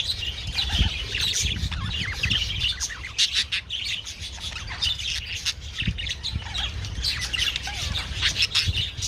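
A colony of budgerigars chattering, with many overlapping chirps and squawks, over a low rumble.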